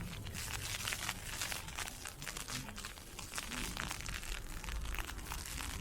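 Blowing ice pellets crackling in dense, irregular ticks, over a steady low rumble.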